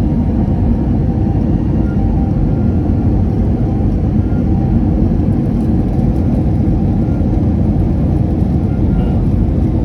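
Steady low rumble of engine and airflow noise inside an airliner's passenger cabin in flight, with a few faint steady tones above it, during the final approach before landing.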